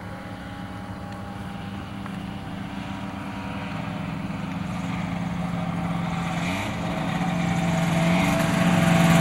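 Kitfox light airplane's propeller engine running at a steady pitch, growing steadily louder as the plane takes off and approaches.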